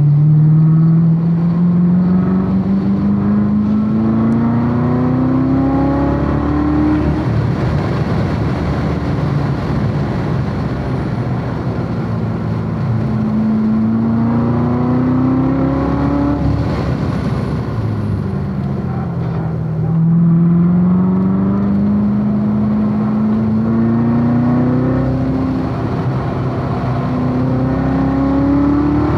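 C7 Corvette Z06's supercharged 6.2-litre LT4 V8 under hard acceleration on track, its note climbing slowly for about seven seconds, falling off, climbing again from about twelve seconds in, then dropping at about twenty seconds and climbing for the rest. Wind and tyre noise run underneath.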